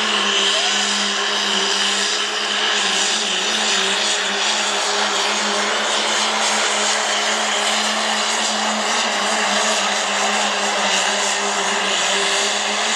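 Turbocharged diesel pickup engine held at full throttle, high revs, during a sled pull, running at a steady pitch with a loud hissing rush over it.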